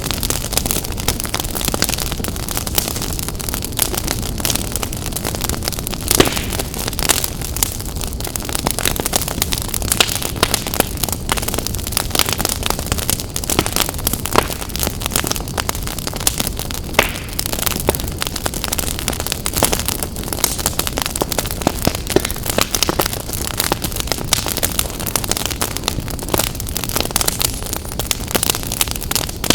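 Wood fire burning in a fireplace, crackling and popping irregularly over a steady low rumble of flame, with a few louder pops.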